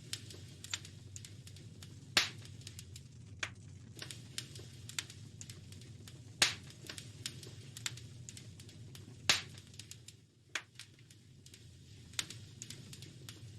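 Wood fire in a fireplace crackling, with irregular small snaps and a few louder pops, over a steady low rumble.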